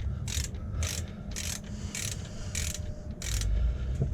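Ratchet wrench clicking through repeated short back-strokes, about six of them roughly half a second apart, tightening the alternator adjuster to put tension on the drive belt. The strokes stop a little before the end.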